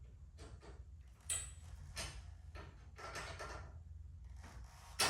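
Wrench tightening the set screws on a garage door torsion-bar cable drum: a string of irregular metal clicks and scrapes, with a sharper knock about a second in and another at the end.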